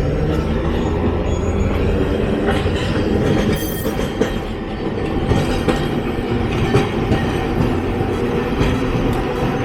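Electric streetcar running on its rails close by: a steady low rumble with scattered sharp clicks from the wheels and track.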